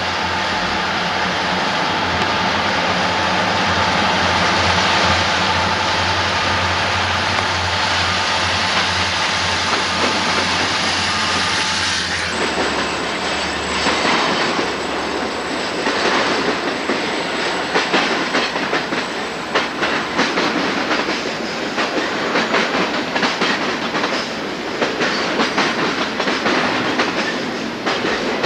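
Freight train passing. For about twelve seconds a diesel locomotive's engine runs with a steady hum. Then, after an abrupt change, the cars' wheels click over the rail joints in a quick, uneven clatter.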